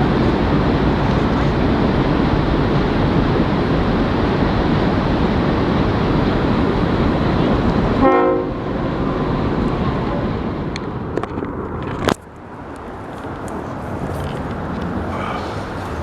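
A train passing on the tracks with a loud, steady rumble. About eight seconds in a brief horn toot sounds, and the rumble then fades. A sharp click about twelve seconds in is followed by a quieter background.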